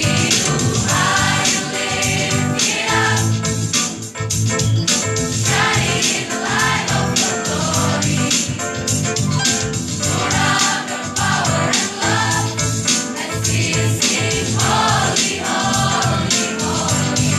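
A school choir singing in parts, accompanied by an organ playing sustained chords.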